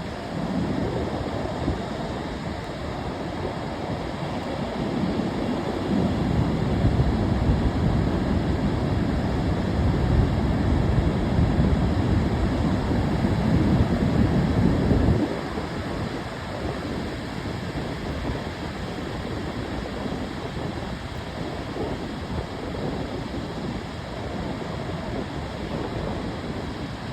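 Ocean surf washing in as a steady rush. A heavier, louder low rumble builds about a fifth of the way in and stops abruptly around the middle.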